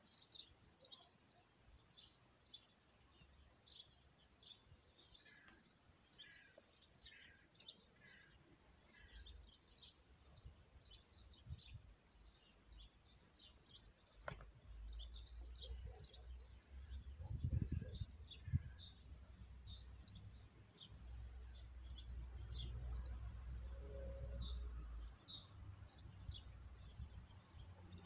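Small birds chirping in many quick, short, high calls, faint. From about halfway a low rumble joins, with a single click just before it.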